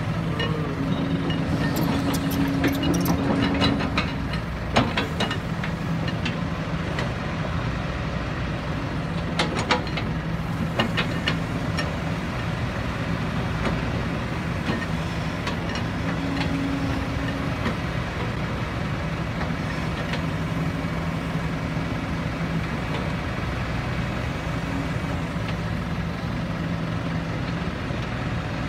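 Heavy diesel engine running steadily, with a few sharp metallic clanks in the first third.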